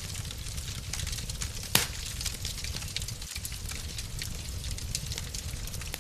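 Wood fire crackling in a fireplace: a steady low rumble with scattered small pops and one louder pop a little under two seconds in.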